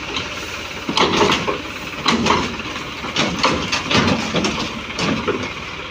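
Diesel tractor engine running steadily, with irregular louder bursts on top, several of them people calling out.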